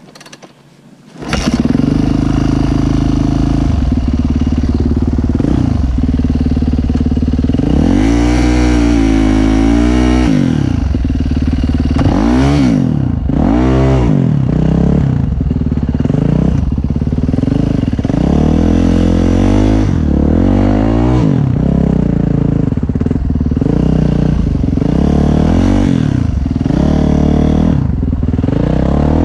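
Dirt bike engine, loud and close, starting abruptly about a second in. It then revs up and down over and over as the throttle is opened and closed while riding.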